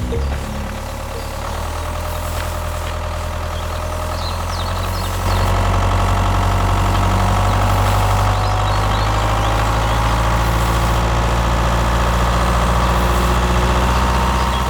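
An engine or motor running steadily, getting louder about five seconds in.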